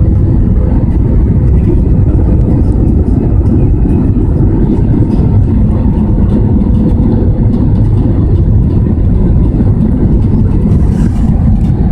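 Airbus A320 cabin noise heard from a passenger seat: a loud, steady rumble of engines and airflow with a faint steady hum.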